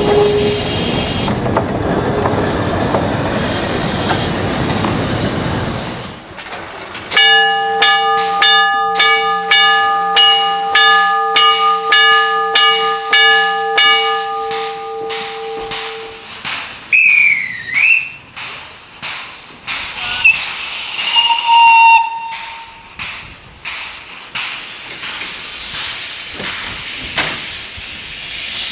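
Steam locomotive blowing off a loud hiss of steam, then sounding a long steam whistle for about eight seconds while regular exhaust chuffs beat beneath it. The chuffs go on and fade after the whistle stops, with a couple of brief high squeals.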